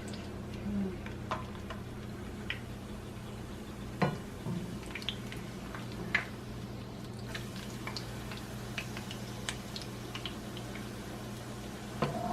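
Corn tortillas frying in a pan of hot oil: scattered crackles and pops, with a few sharper clicks of a utensil against the pan, the sharpest about four seconds in. A steady low hum runs underneath.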